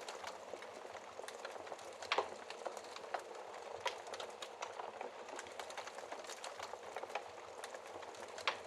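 Wood fire crackling in a fireplace: a steady soft hiss with irregular sharp pops, the loudest about two seconds in, near four seconds and near the end.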